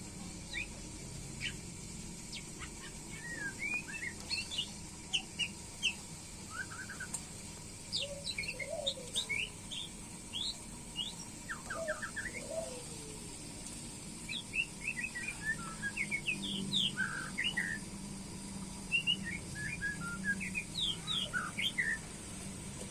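White-rumped shama (murai batu) calling in short phrases of quick, varied whistled notes that sweep up and down, bunched in bursts with pauses between.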